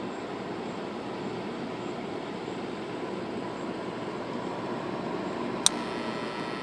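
GE window air conditioner running with a steady fan and airflow noise and a faint steady hum. Its compressor has a locked rotor. A single sharp click comes about five and a half seconds in.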